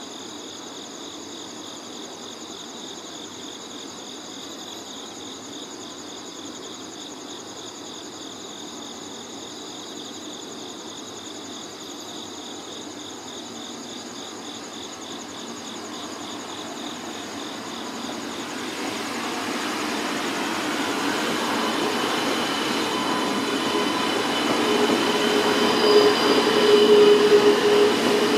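E2-series Shinkansen coupled to an E3-series set pulling slowly out of a depot; its running noise swells over the last ten seconds as it draws near and passes, with a few steady squealing tones from the wheels. Before that, a steady pulsing insect trill fills the air.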